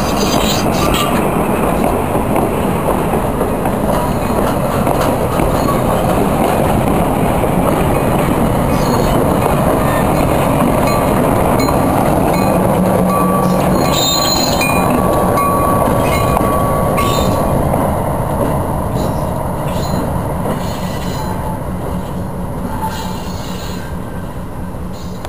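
Passenger coaches rolling past close by, wheels rumbling over the rails with a thin wheel squeal around the middle, as an EMD SW7 diesel switcher shoves the train from the rear and passes near the midpoint. The sound fades over the last several seconds as the train moves away.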